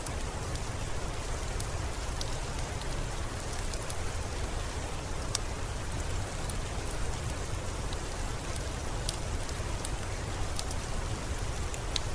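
Steady rainfall with an even hiss and a low rumble underneath, dotted with scattered sharp ticks of drops.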